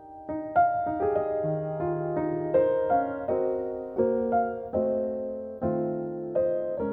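Background music: a gentle piano piece, its notes struck about every half second, with chords changing.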